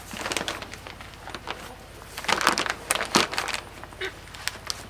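Grain-sack fabric rustling and crinkling in irregular bursts as it is pushed and tucked up under a coop's wire panel, over a low steady hum.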